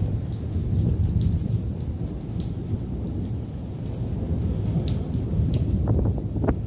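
Hurricane storm: rain falling with a deep, steady rumble underneath, and a few sharper taps near the end.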